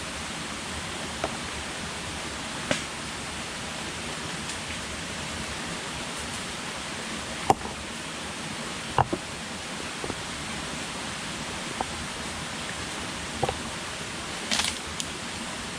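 Steady hiss of rain, with short sharp ticks or pops at irregular intervals, about one every second or two.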